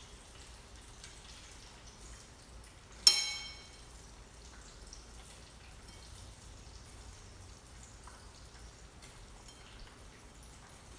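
A single sharp metallic clink about three seconds in, ringing briefly and dying away, over faint light crackling and ticking from the kitchen.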